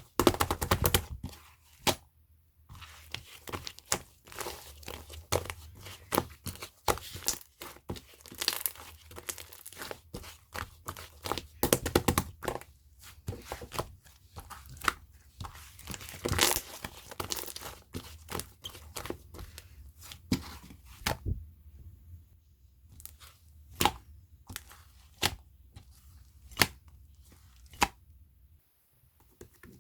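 Blue pearl chewy slime being squished, stretched and folded by hand, giving a dense run of sticky, crackling clicks. From about two-thirds of the way in, the clicks thin out to scattered single pops.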